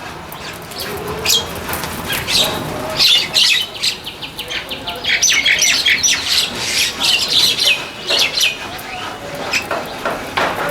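A large mixed flock of wild birds calling over one another at a feeding spot, with many short, overlapping chirps and squawks, and wings flapping.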